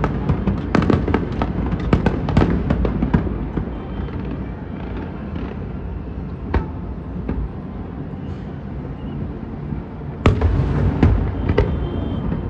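Fireworks bursting in a rapid volley of sharp bangs over a continuous low rumble. The volley thins to occasional bangs in the middle, and a loud new cluster of bursts comes about ten seconds in.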